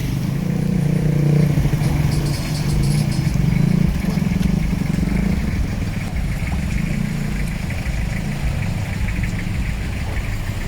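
A motor vehicle's engine running steadily, louder in the first few seconds.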